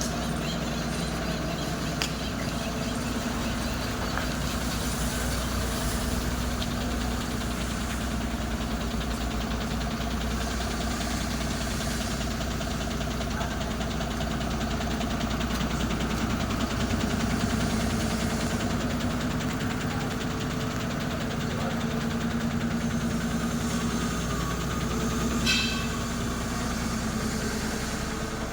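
Diesel truck engine idling steadily, with a short sharp higher-pitched sound near the end.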